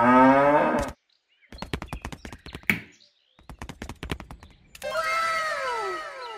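Farm-animal sound effects: a short low moo in the first second, then a run of hoof clip-clop clicks, then a horse whinny in several calls falling in pitch near the end.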